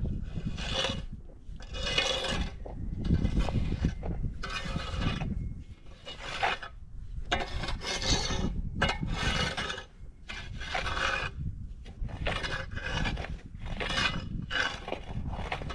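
Snow shovel scraping over the driveway in repeated strokes, roughly one a second, each a rough scrape.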